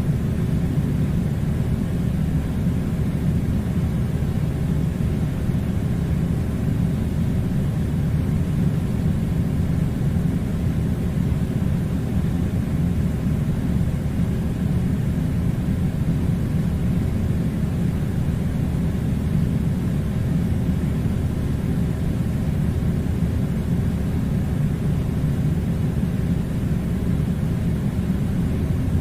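Steady low rushing hum of an air conditioner blowing cold air, unchanging throughout.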